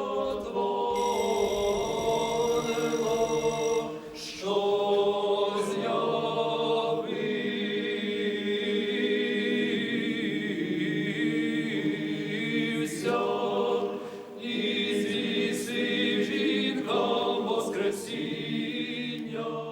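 A choir singing unaccompanied, holding long chords in several parts, in phrases separated by brief pauses.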